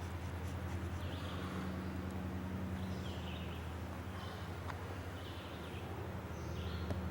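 Outdoor ambience: short bird calls every second or so over a steady low hum.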